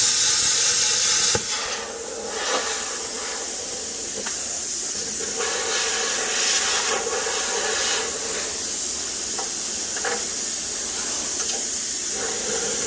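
Loud steady hiss of compressed air from a plasma cutter, which cuts off abruptly about a second in. A quieter steady hiss with faint crackles carries on after it.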